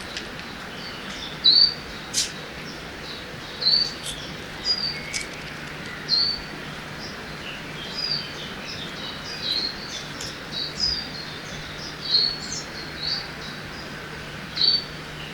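Forest ambience by a river: small birds giving short, repeated chirps about once a second over a steady background hiss of running water.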